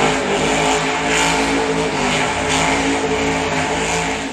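Loud engine running and revving steadily, cutting off abruptly at the end.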